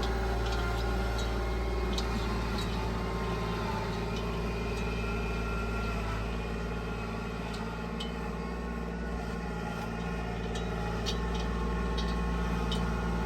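Tractor engine running steadily, with a slight dip in level partway through and a few scattered clicks.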